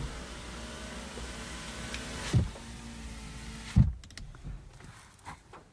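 A small motor running with a steady hum and hiss, broken by two knocks; it stops at the second knock, about four seconds in.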